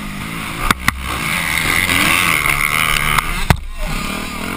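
Motocross dirt bike engine running hard, its pitch rising and falling with the throttle, over a haze of wind and track noise. A few sharp knocks stand out.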